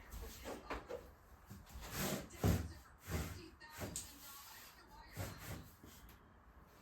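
Irregular knocks, clunks and rustles of household things being handled, with the loudest knock about two and a half seconds in.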